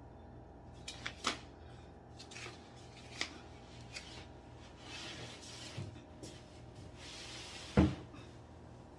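Scattered light clicks and knocks with soft rubbing as flat-pack coffee-table parts and hardware are handled, ending in one much louder thump near the end.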